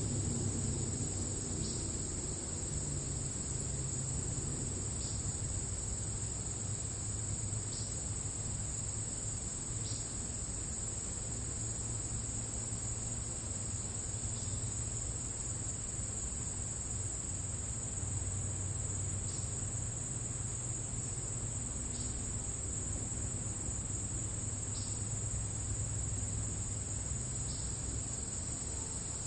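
Crickets in grass making a steady, unbroken high trill, over a low steady rumble.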